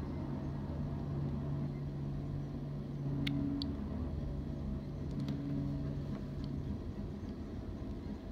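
Coal train rolling past, a steady low rumble with a constant low hum under it. A few brief high-pitched sounds come about three and five seconds in.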